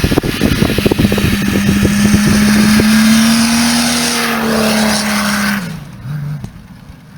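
The truck's Mercedes OM603 straight-six turbo-diesel held at high revs under load, its pitch climbing slowly, then dropping off sharply as the throttle is released about five and a half seconds in. Irregular thumps and buffeting come in the first second or so.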